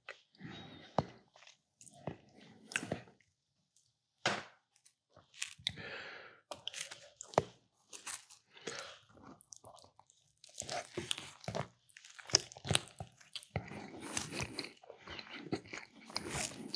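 A person biting and chewing a meatball sub topped with mac and cheese, with crunching mouth sounds coming in irregular spells separated by short pauses.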